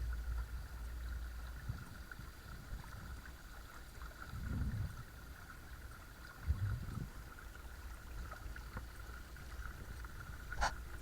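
Watersnake T24 12 V electric trolling motor running steadily with a thin high whine, over water moving along the kayak hull. Two soft low thuds come about midway, and a sharp click comes near the end.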